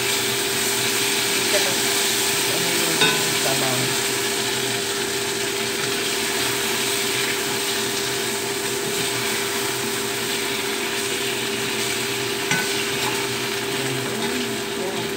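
Tofu sizzling as it fries in oil in a black wok, stirred with a spatula that clicks against the pan a few times. A steady hum runs underneath.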